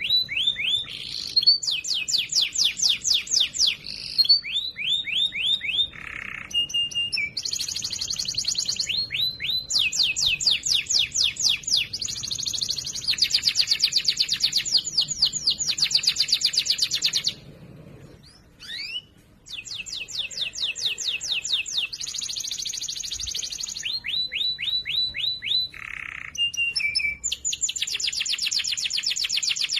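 Domestic canary singing a long song of fast, rattling trills and repeated falling sweeps. It pauses briefly about two-thirds of the way through, then carries on.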